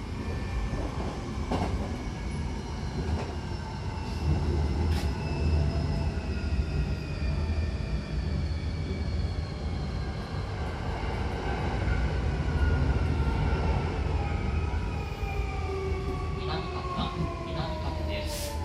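Hankyu Kyoto Line electric train heard from inside the car as it slows into a station. A whine of several tones from the traction motors falls steadily in pitch as the train brakes, over a low rumble of wheels on rail, with a few clicks near the end.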